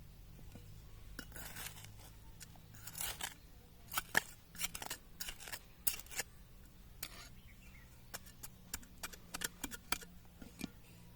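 Irregular sharp clicks and short scrapes of hands and a small tool working garden soil while seedlings are set into the ground.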